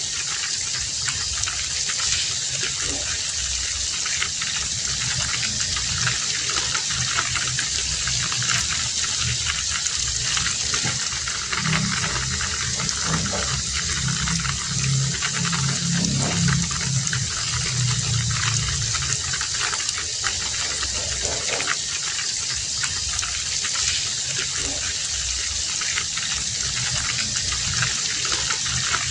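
Heavy rain falling steadily, with many individual drops heard spattering close by. A low rumble swells in for several seconds in the middle and fades again.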